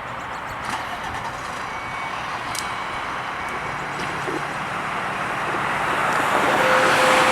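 Fire engine approaching, its engine and road noise growing steadily louder. Near the end a steady low tone comes in, broken into short pulses.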